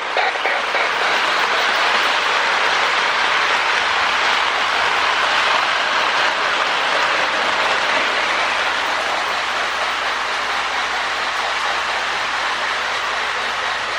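Lionel MPC-era Union Pacific Berkshire model steam locomotive running on its track, its sound-of-steam board making a chuffing hiss paced to the engine's speed, fast enough here to run together into a steady rush.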